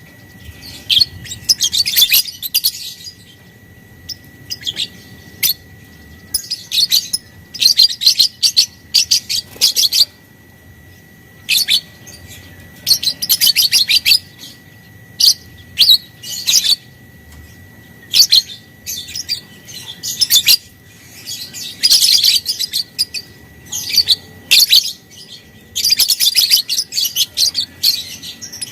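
Lovebird giving repeated bursts of rapid, high chattering chirps, each burst lasting about half a second to a second and a half, with short pauses between them.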